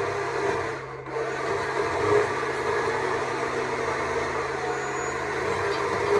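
Stihl MSA 200 C battery chainsaw running and cutting wood, with a brief dip about a second in before it carries on steadily.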